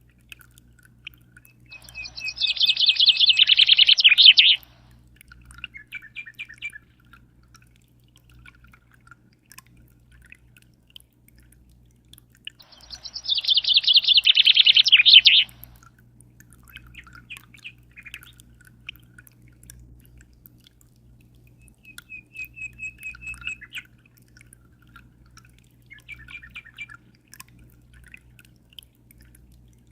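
A songbird singing: two loud, rapid trilled phrases about ten seconds apart, each swelling over about two seconds, with softer scattered chirps in between. A low steady hum runs underneath.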